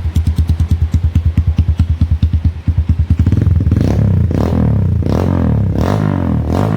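Kawasaki D-Tracker 150's single-cylinder engine, stock inside but breathing through an aftermarket full-system racing exhaust, idling with a quick, even thumping. About three seconds in it is revved repeatedly, the pitch rising and falling with each blip of the throttle.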